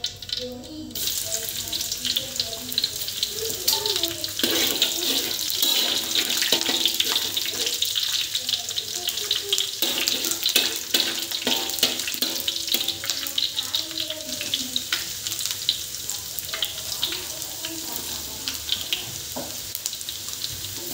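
Tempe slices frying in hot oil in an aluminium wok: a steady sizzle full of small crackles that starts about a second in as the tempe goes into the oil, with the pieces moved about by a spatula.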